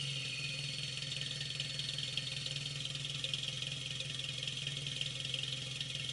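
Nissan Silvia S12's CA18ET turbocharged 1.8-litre four-cylinder engine idling steadily, heard through its exhaust.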